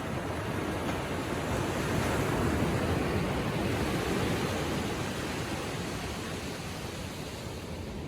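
Ocean waves washing gently on a sandy beach, one swell rising to a peak a couple of seconds in and slowly subsiding.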